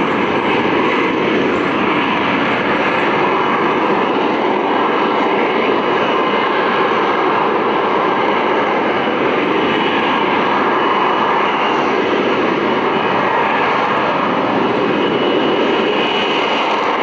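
Aerobatic airplane's engine running loudly through a flying display, swelling and easing gently as the plane manoeuvres.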